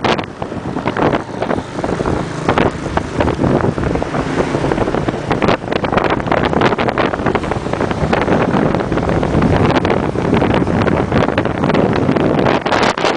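A motorbike running along a road, with heavy wind buffeting the microphone in irregular gusts.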